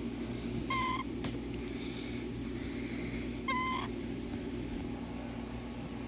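Baby cockatiel giving two short chirps about three seconds apart, with a fainter call between them, over a steady low hum.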